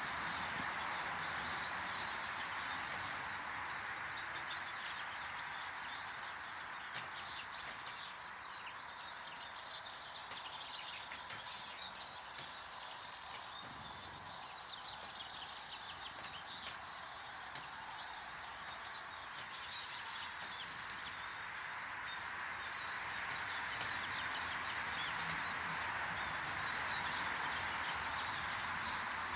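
Small birds chirping around a garden bird table over a steady background hiss, with a quick run of four sharp chirps about six seconds in and scattered chirps after.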